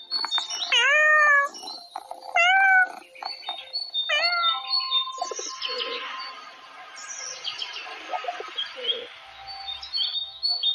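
A domestic cat meowing three times in the first half, each meow falling then levelling in pitch. Birds chirp throughout.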